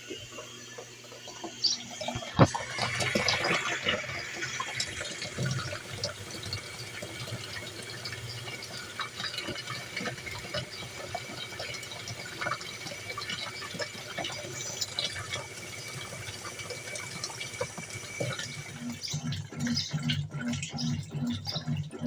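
Water pouring into the tub of a Colormaq Eco Max 14 kg washing machine as it fills for the wash. A rhythmic low pulsing starts near the end.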